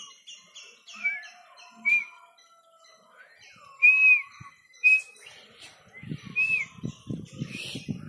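Bird calls: a series of clear, high whistled notes, some short and arching up and down, others gliding downward, loudest about four seconds in.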